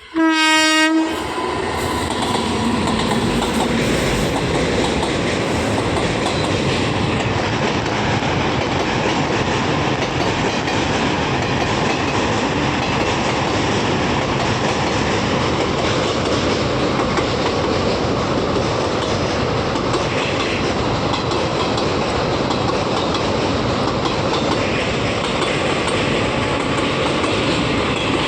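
An express train's horn sounds one short blast at the start, then the train runs on with a steady rumble and the clatter of wheels over rail joints.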